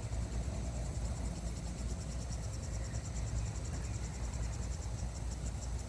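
Insects chirping in a high, fast, even pulse, over a steady low rumble.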